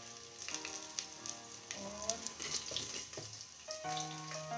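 Food frying in hot oil in a steel pot on a gas stove: a steady sizzle with scattered crackles.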